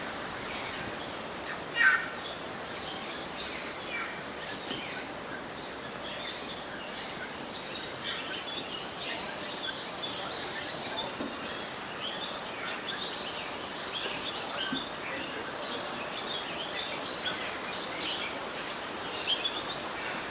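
Many birds in a walk-through aviary chirping and calling over a steady background hiss, with one loud, sharp call about two seconds in and a few louder calls near the end.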